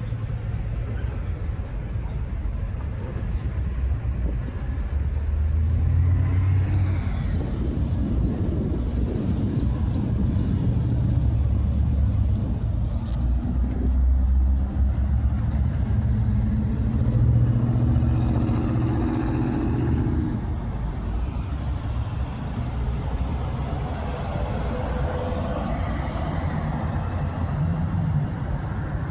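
A car engine running with a low rumble, its pitch rising and falling twice as it speeds up and eases off.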